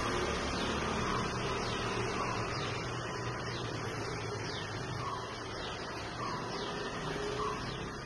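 Steady background hum with faint, short, falling bird chirps scattered through it.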